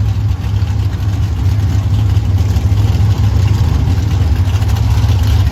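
Car engine idling steadily with a loud, deep rumble.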